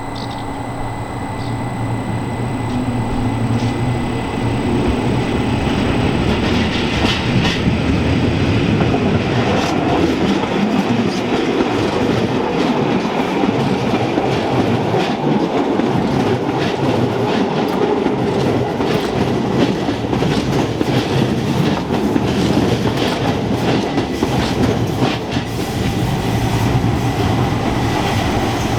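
Rhaetian Railway metre-gauge train running on the rails, wheels clicking over the rail joints. The sound grows louder over the first few seconds, then holds steady.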